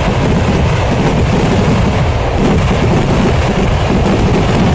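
Kerala temple fireworks (vedikettu) finale: a dense barrage of firecracker explosions going off so fast that they merge into one continuous, unbroken rumble.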